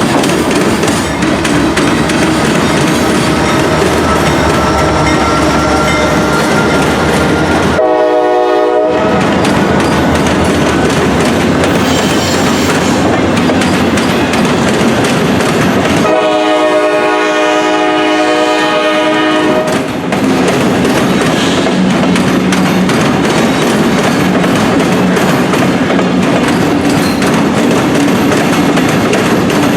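Norfolk Southern train running past close by, with a steady loud rumble and wheel clatter. Its locomotive horn sounds a short blast about eight seconds in and a longer one from about sixteen to twenty seconds.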